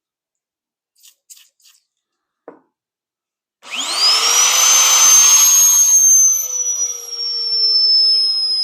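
A few faint clicks, then an electric drill's motor starts about three and a half seconds in. Its whine rises quickly to full speed and runs on loudly, its pitch sagging slightly as it goes, in keeping with drilling into half-inch steel plate.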